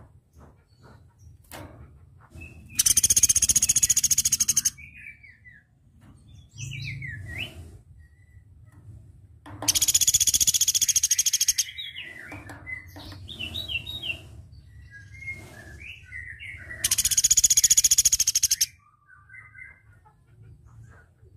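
Platuk beras (velvet-fronted nuthatch) singing: three loud, very rapid rattling trills of about two seconds each, roughly seven seconds apart, with short chirps and quick whistled notes in between.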